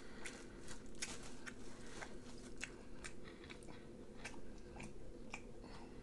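A person chewing food close to the microphone, with irregular small clicks and crunches several times a second.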